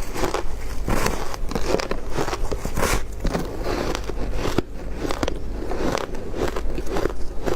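Ice being bitten and crunched between the teeth, close up, in a run of sharp, irregular crunches several a second.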